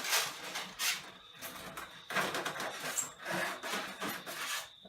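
Heavy table saw unit being slid and shoved over cardboard: a series of irregular scraping, rubbing pushes.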